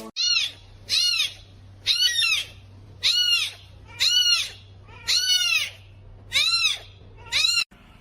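An animal calling eight times in a row, about once a second: short high-pitched calls that each rise and fall in pitch.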